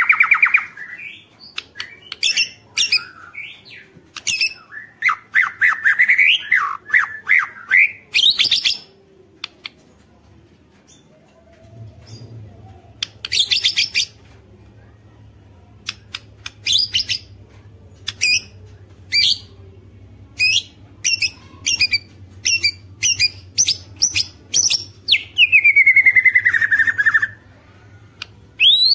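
White-rumped shama calling in loud, broken phrases: sweeping whistled notes mixed with harsh rattling calls, and a long run of short sharp notes in the middle. A faint low hum comes in partway through.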